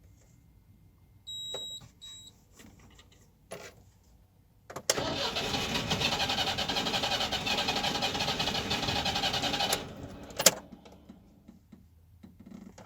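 Starter cranking the UMZ-4216 petrol engine for about five seconds without it catching: the engine will not restart after it has been hot. Two short high beeps come before the cranking, and a sharp click follows it.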